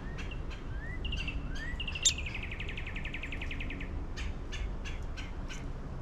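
Small birds calling: sharp chip notes and short rising whistles, with a fast trill that falls slightly in pitch, lasting about two seconds near the middle and opening with a loud sharp note.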